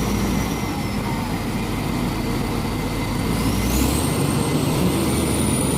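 Heavy diesel engine running steadily, with a faint high whine that rises about halfway through.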